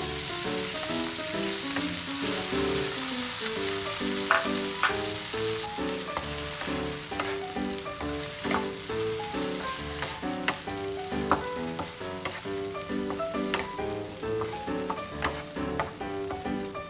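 Diced meat and kimchi sizzling in a nonstick frying pan while a wooden spatula stirs them, with a few sharp knocks of the spatula against the pan. Background music plays underneath.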